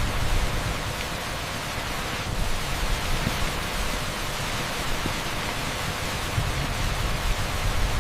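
Torrential rain pouring onto an asphalt street: a dense, steady hiss with a shifting low rumble underneath.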